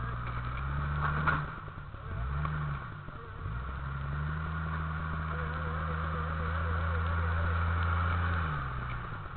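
Engine of a lifted Jeep Cherokee XJ under load while rock crawling over boulders: it revs up and drops back a few times, then holds a steady higher speed for several seconds and eases off near the end. A sharp knock about a second in.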